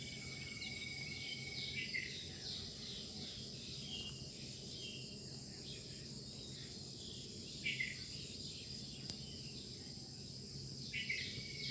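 Dawn chorus of garden birds: short chirps and trills repeating, with a held whistled note at the start and again near the end, over a steady high-pitched drone of insects and a low steady hum.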